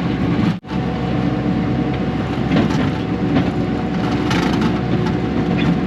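Diesel engine of a Bobcat T630 compact track loader running steadily under load while its bucket pushes and scrapes rocky dirt and brush, with scattered crunching and cracking. The sound cuts out for an instant about half a second in.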